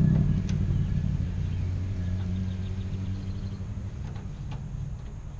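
A motor vehicle's engine rumbling, loudest at the start and fading steadily, with a few light clicks.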